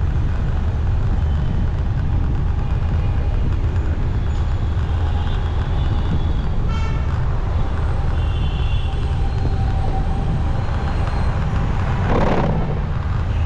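Motorcycle riding through city traffic: a steady low rumble of engine and road noise, with vehicle horns honking several times and a short loud burst of noise near the end.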